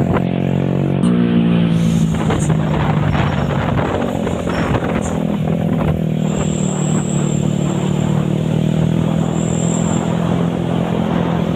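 Large truck's engine running steadily with a deep, even hum, shifting up in pitch about a second in.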